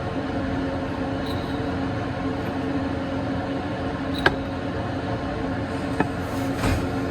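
A steady machine hum with a constant pitch, broken by a few sharp clicks about four and six seconds in, consistent with tools working on exhaust manifold studs.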